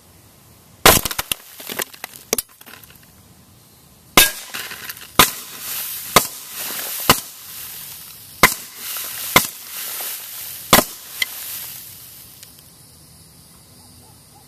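Suppressed .45 ACP pistol shots from a Sig Sauer Scorpion 1911 with an Osprey 45 suppressor. One shot about a second in is followed by clattering, and then seven more shots come about a second apart.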